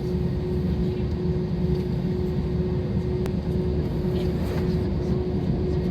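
Cabin noise of a Jetstar Japan Airbus A320 jet airliner: a steady deep rumble of engines and airflow with a constant hum. The level holds steady and does not build.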